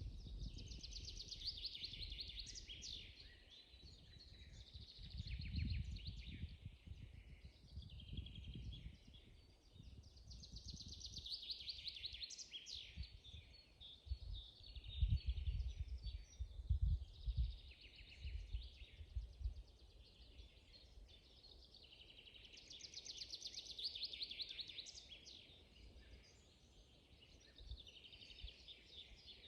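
Several songbirds singing: one repeats a fast trilled phrase about every ten seconds, with other chirps and calls in between. Low rumbling bursts come and go underneath, loudest around the middle.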